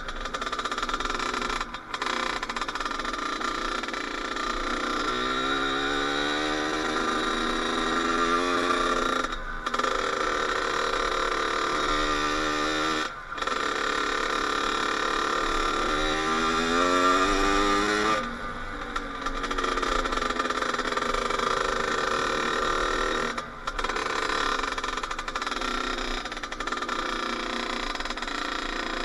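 Kawasaki KX80 two-stroke dirt bike being ridden, its engine revving up with a rising pitch three times and dropping off briefly between runs.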